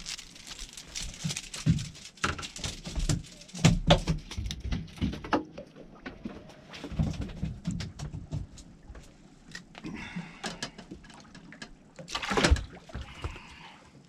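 Irregular knocks, taps and rustling handling noise. The loudest thumps come about three and a half seconds in and again near twelve and a half seconds.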